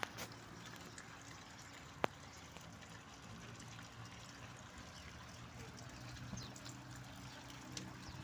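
Steady trickling water with a few faint, short bird chirps, and one sharp click about two seconds in.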